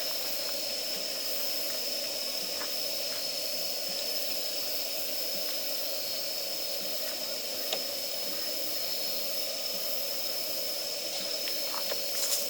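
Campfire of damp firewood hissing steadily, with a few sharp crackles from the wood, as it is being lit with a gas burner.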